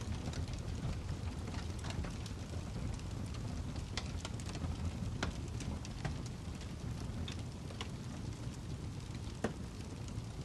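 Wood fire burning in a fireplace: a steady low rumble of flame with scattered sharp crackles and pops from the burning log, the sharpest about nine and a half seconds in.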